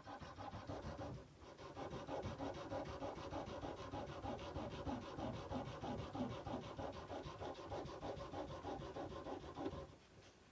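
Sandpaper worked by hand over a steel kukri blade in quick, even back-and-forth strokes, pausing briefly about a second in and stopping shortly before the end.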